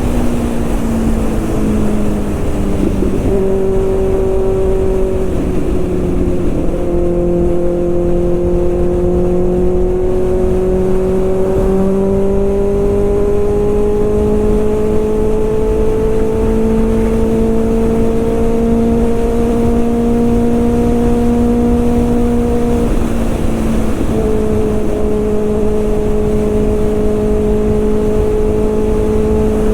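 Kawasaki ZX-6R inline-four engine running on the move, its note holding a steady mid-range pitch that creeps slowly up and drops suddenly a few times, under heavy low wind and road rush.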